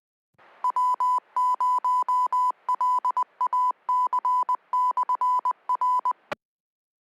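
Amateur radio repeater sending its Morse code identification: a steady high beep keyed in dots and dashes over faint radio hiss for about six seconds. It ends with a short squelch-tail burst as the carrier drops.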